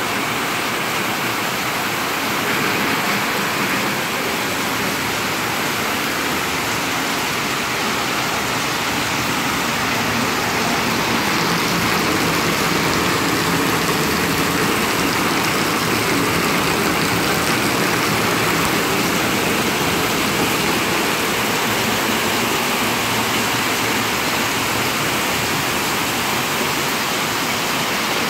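Heavy rain falling steadily on a tin roof: a dense, even rush that holds at the same level throughout.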